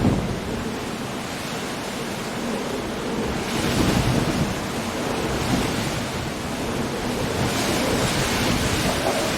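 Stormy sea surf breaking against rocky cliffs, with wind and rain, as a continuous wash of noise. It swells as waves come in about three and a half seconds in and again near the end.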